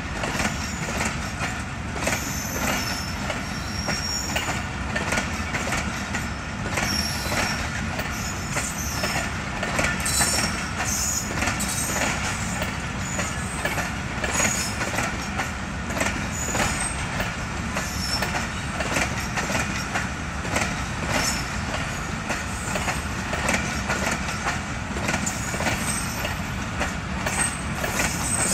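Pakistan Railways passenger coaches rolling past as the train pulls out, their wheels clattering steadily over the rails. Occasional short high squeals come from the wheels.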